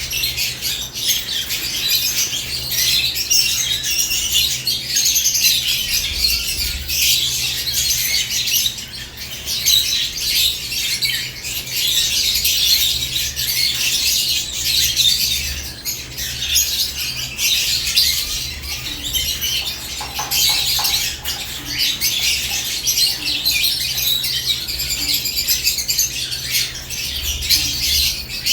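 A flock of caged lovebirds chirping and chattering, a dense high twittering with no pauses, over a steady low hum.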